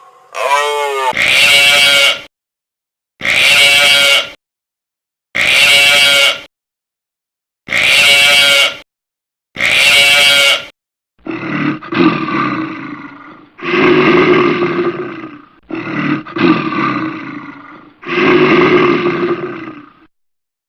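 Animal calls from two different animals. First come five short pitched calls, each about a second long and about two seconds apart. About halfway through, a second animal gives four longer, lower calls.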